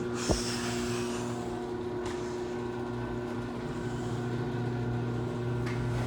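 Garage door opener motor running steadily with a low electric hum, and a single sharp click about a third of a second in.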